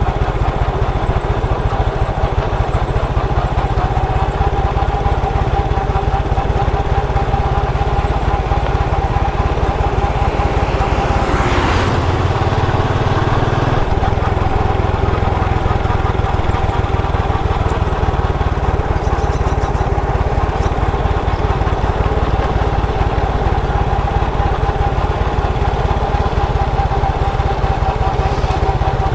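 Motorcycle engine running steadily while being ridden, heard from on the bike, with a brief change in its low note about twelve seconds in.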